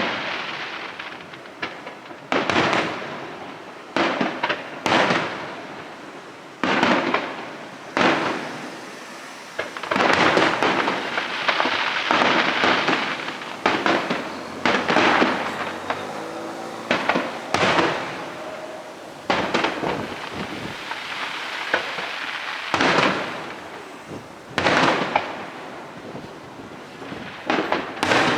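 Aerial firework shells bursting overhead: sharp booms, each with an echoing decay, every second or two. A thicker run of overlapping bursts and crackle comes about ten seconds in.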